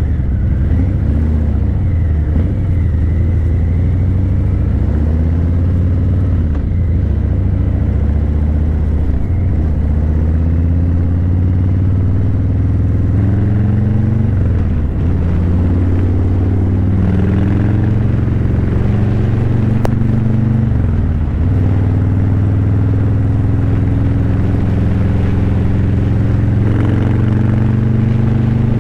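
Harley-Davidson Breakout 117's Milwaukee-Eight 117 V-twin running through Vance & Hines Eliminator 300 slip-on mufflers while riding in traffic. The engine note falls and climbs again a few times with the throttle.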